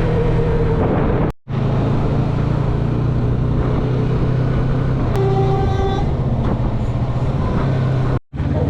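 Yamaha MT-03 motorcycle's parallel-twin engine running steadily on the road, with rushing wind noise on the bike-mounted camera. A horn sounds briefly about five seconds in. The sound cuts out for a moment twice.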